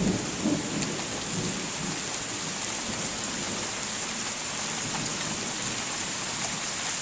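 Rain from a thunderstorm falling steadily as an even hiss, with a rumble of thunder fading out in the first second.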